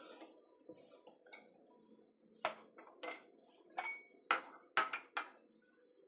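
A kitchen utensil clinking against a dish: a run of about eight quick, sharp clinks starting a little over two seconds in, as in scraping or stirring batter.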